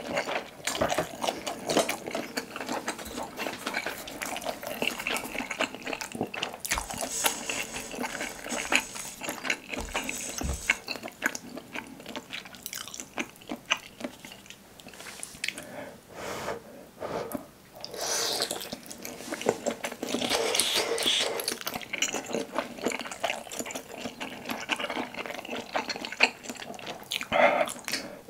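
Close-up wet chewing and biting of soft, broth-soaked Korean fish cake (eomuk) on skewers, with irregular squishy, clicking mouth sounds.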